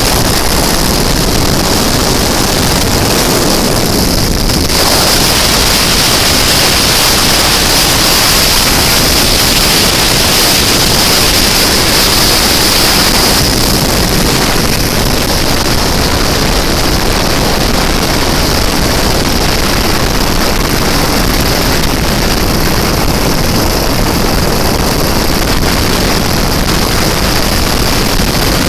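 Ural M-62 motorcycle's flat-twin engine running at road speed, largely buried under steady wind noise on the microphone.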